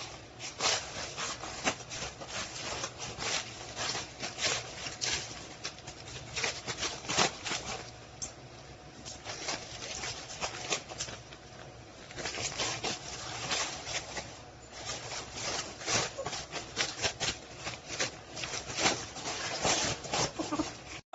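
Irregular rustling and rubbing noises with many short crackles, easing off briefly twice.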